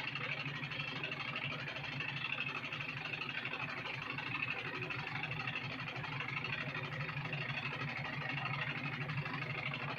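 Farm machine engine running steadily at idle, an even drone without changes in speed.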